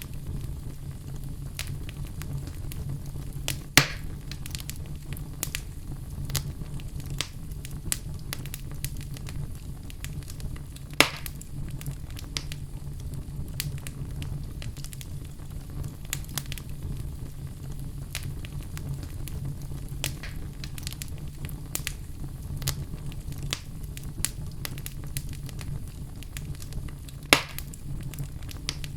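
Fire sound effect: a fire crackling over a steady low rumble, with many small snaps and three louder pops spread through it.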